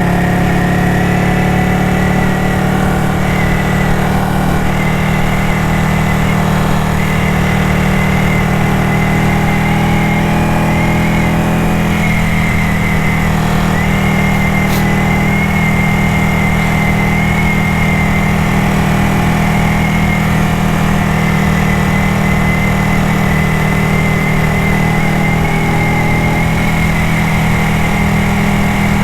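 Ducati motorcycle engine running at a steady, unchanging pitch.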